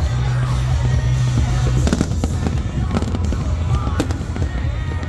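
Fireworks going off: repeated sharp cracks and bangs, clustered about two, three and four seconds in, over a continuous deep rumble of booms.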